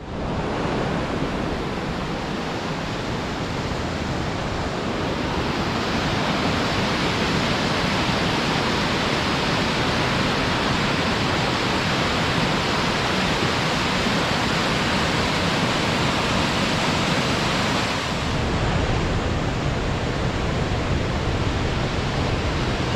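Steady rush of the Potomac River's rapids and waterfalls at Great Falls, a dense even roar of water that grows a little louder over the first several seconds.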